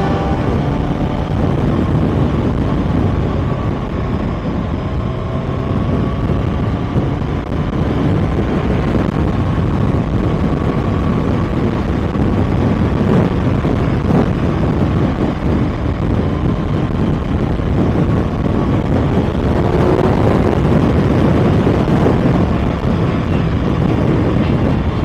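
Kawasaki ZX-6R inline-four engine running steadily while the bike is ridden, mixed with wind and road noise.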